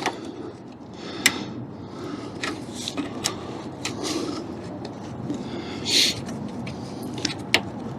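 Scattered sharp clicks, light knocks and a brief scrape from a clutch cable and its clips being fitted to the car by hand.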